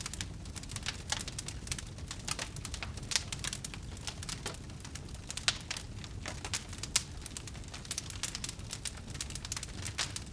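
Wood fire burning in a fireplace, crackling irregularly over a steady low rumble of the flames, with a few sharper pops from the burning logs.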